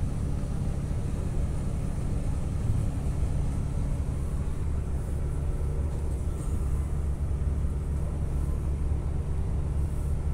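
Passenger train running at speed, heard from inside the carriage: a steady low rumble.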